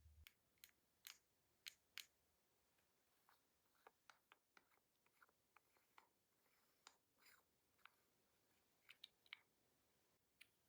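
Faint, scattered light clicks and taps of nail-art tools being handled during gel nail-art work, several in quick succession about a second in and again near the end.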